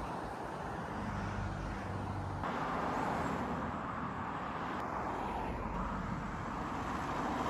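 Steady road noise of passing motor traffic and wind rushing over the microphone while riding along a road, with a low engine hum in the first couple of seconds.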